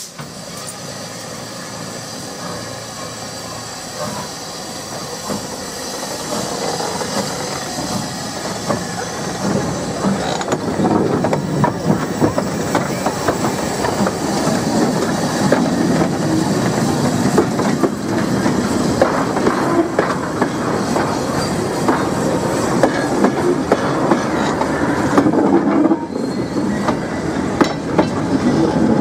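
Small steam saddle-tank locomotive and its train of old wooden open wagons rolling slowly past close by. The wheels clatter and knock over the rail joints, growing louder about a third of the way in as the wagons draw level.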